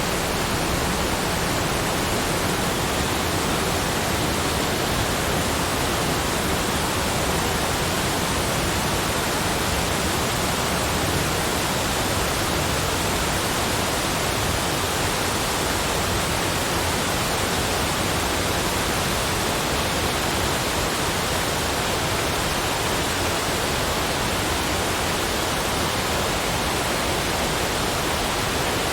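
Unbroken, even rushing noise spread across all pitches, with no change and no separate events.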